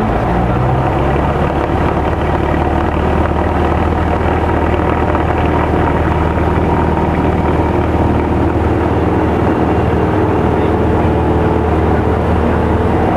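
Light aircraft's propeller engine running steadily at a loud, even level.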